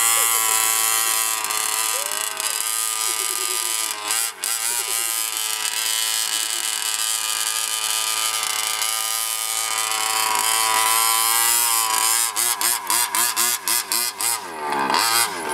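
Losi radio-controlled truck's motor running steadily at a constant pitch, then cutting in and out in quick pulses about twelve seconds in before picking up again near the end.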